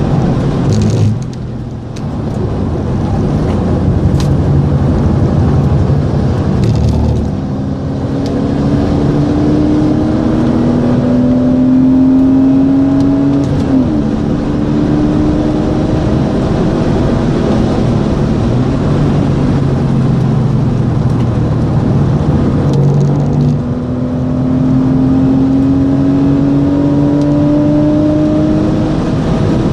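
Porsche Boxster 2.7's flat-six engine pulling hard, heard on board the car: its pitch climbs slowly over several seconds, drops sharply at an upshift about halfway through, then climbs again to another upshift at the very end. The engine briefly eases off near the start, at about a quarter of the way in and again about three quarters in.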